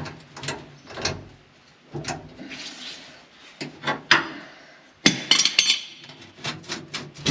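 Heavy steel feederhouse floor plate of a John Deere combine scraping and knocking as it is let down, hanging up on a carriage bolt. A loud rattling metal clatter about five seconds in.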